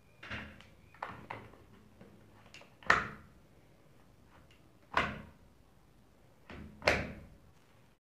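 Hard clicks and knocks of plastic keyboard parts being handled, with three louder, sharp knocks about two seconds apart and several lighter clicks before them.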